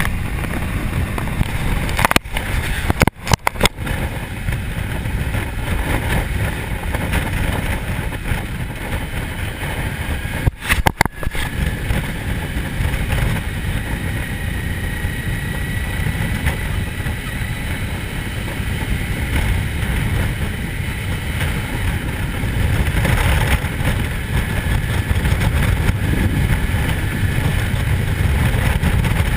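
Motorcycle running at road speed, with a steady low rumble of wind and engine on the microphone; the sound briefly drops out twice, about three and eleven seconds in.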